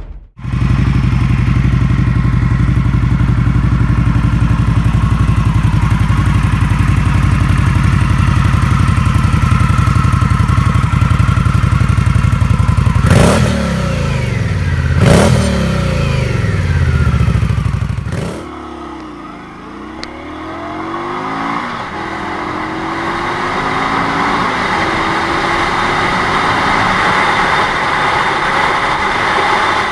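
Cruiser motorcycle engine running steadily, then revved sharply twice about halfway through. After a sudden change the sound drops, then builds back up with gliding pitch as the engine pulls.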